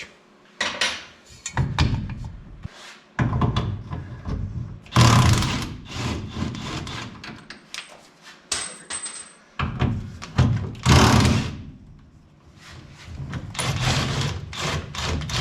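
Hand tools working on a truck's drive line: irregular metallic knocks, clanks and scrapes, with two louder rasping bursts about five and eleven seconds in.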